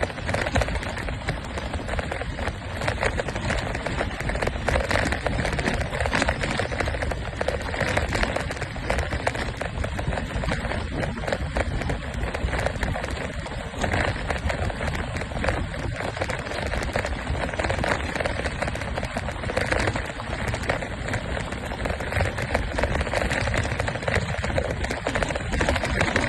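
Riding noise from a motor scooter on the move: a steady rough rush of wind on the microphone mixed with constant crackling and rattling.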